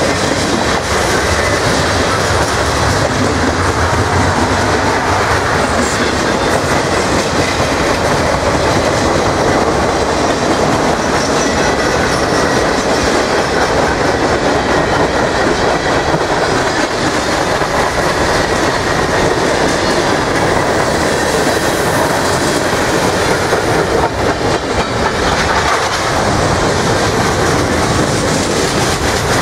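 Norfolk Southern mixed freight train's cars (boxcars, gondolas, a pulpwood car, a covered hopper) rolling past: a loud, steady rumble and rattle of steel wheels on the rails.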